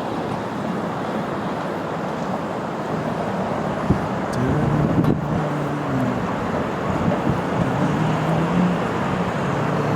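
Steady outdoor rumble of wind and distant traffic. A low, wavering hum joins about four and a half seconds in.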